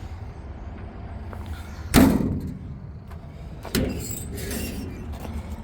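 A door on the truck slams shut with a loud bang about two seconds in, followed by a smaller knock near four seconds.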